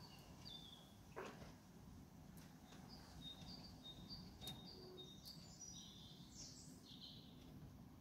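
A songbird singing faintly in the night: a quick series of short, high whistled notes alternating between two pitches, starting a few seconds in and ending with a few rougher notes. A single click comes about a second in, over a low steady background hum.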